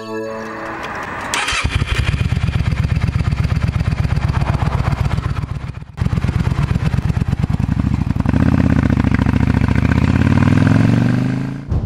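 Yamaha V-Star 650's air-cooled V-twin starting: a brief crank, then the engine catches about a second and a half in and runs with an even pulsing beat. After a short break around six seconds in, the motorcycle pulls away, its engine pitch rising as it accelerates.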